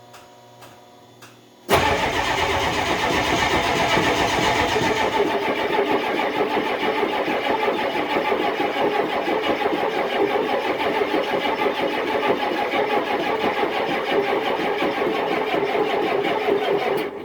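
An engine cold-cranking on its starter motor: it starts abruptly about two seconds in, churns steadily with fast pulsing for about fifteen seconds and cuts off sharply near the end, without catching. The attempt is a cold start in sub-zero weather on a battery that has just been charged.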